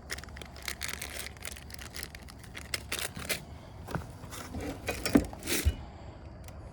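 Rustling and crinkling handling noises, like plastic packaging being handled, broken by scattered small clicks and a few light knocks about four to five seconds in.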